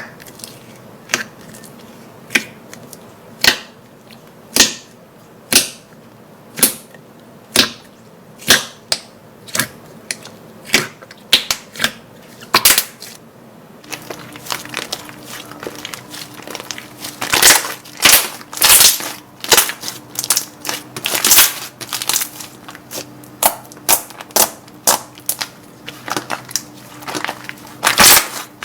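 Slime being pressed and squeezed, making sharp pops and clicks: single pops about once a second at first, then denser, louder clusters of pops and crackles from about halfway on.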